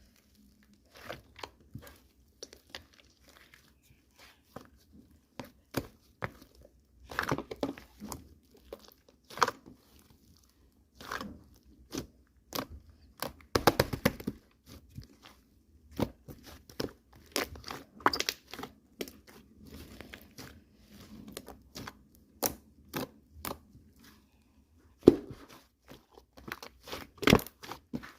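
Irregular sharp clicks and crinkling, tearing-like handling noises in a small room, coming in uneven clusters.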